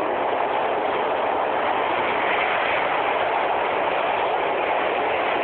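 Steady running noise of a moving train, heard from inside the carriage, an even rush with no breaks.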